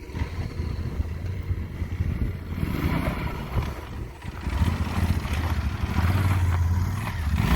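Dirt bike engine running and revving, its pitch rising and falling, louder in the second half.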